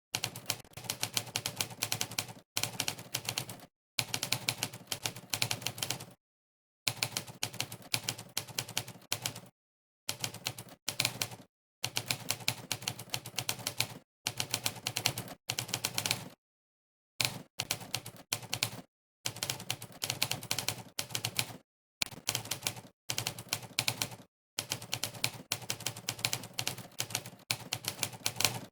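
Sampled typewriter keystroke sound effect from monkeytype's 'typewriter' sound setting, clacking rapidly with each key press in runs of many strokes a second, broken by short pauses of dead silence.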